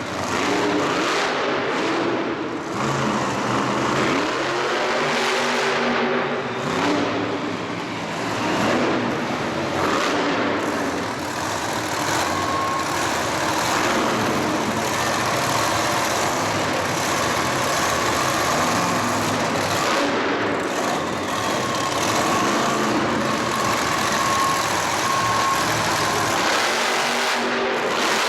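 Vehicle engine revving hard over and over, its pitch rising and falling several times, amid a dense loud wash of noise.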